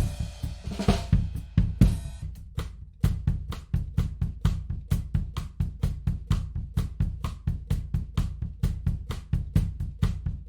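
Recorded drum kit playing a groove of kick, snare and hi-hat, run through a tape emulation plugin. A cymbal wash rings over the first two seconds, then the kit settles into a steady, quick pattern of short hits.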